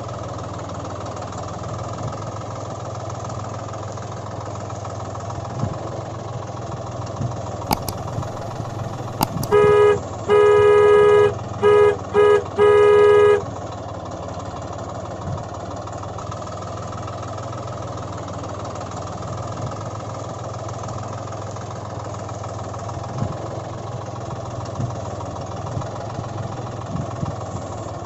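Tractor engine running steadily at a constant pace. About ten seconds in, a horn honks five times in quick succession, two of the honks long.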